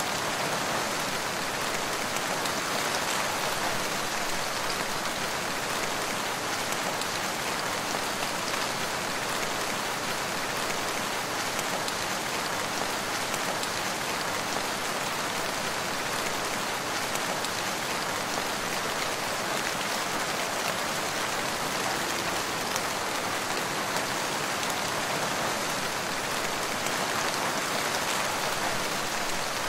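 Steady rain: a continuous, even hiss of many fine drops, with no lulls or gusts.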